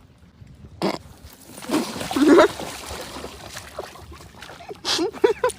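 A pet animal calling: a brief noisy burst about a second in, then a loud stretch of pitched calls, and near the end a run of short rising-and-falling calls.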